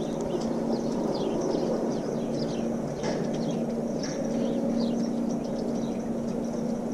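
Small birds chirping over and over in short, quick falling chirps, over a steady low hum and background noise.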